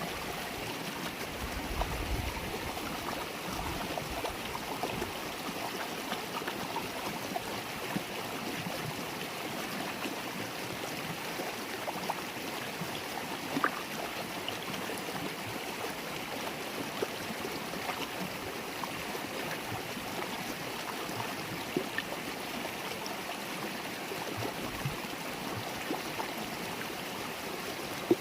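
River water babbling and gurgling steadily over its bed, with small splashes and drips scattered through it, one sharper splash about halfway through.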